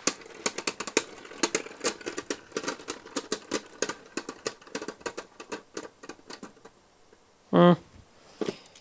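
Beyblade parts clicking and clattering irregularly as they are handled, taken apart and swapped. There is a brief voiced 'hm' about seven and a half seconds in.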